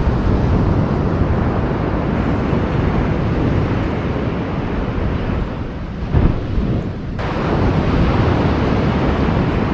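Surf washing on a beach, mixed with wind buffeting the microphone. The rush eases briefly near six seconds, then picks up again about a second later.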